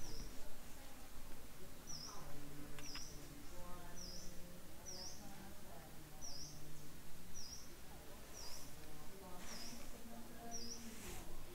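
A small bird repeating a short, high, dipping chirp about once a second.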